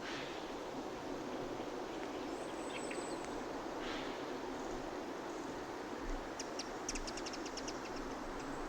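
Birds chirping over steady outdoor background noise: a few brief high calls about three seconds in, then a quick run of short high chirps about six to seven and a half seconds in.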